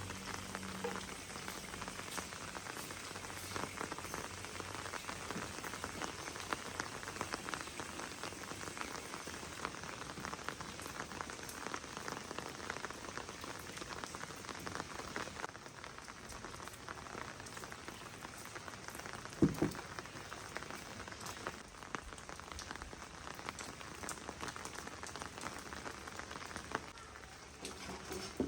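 Rain falling steadily: a dense patter of drops hitting a surface. One louder single knock comes about two-thirds of the way through.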